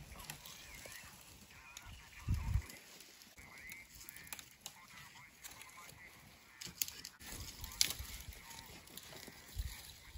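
Birds giving repeated honking, cackling calls in the background, with a few sharp clicks or snaps and a low thud about two seconds in.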